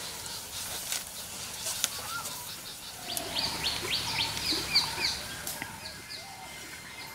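Birds chirping outdoors: a quick run of short, high chirps a few seconds in, with a few faint clicks and a thin steady high tone near the end.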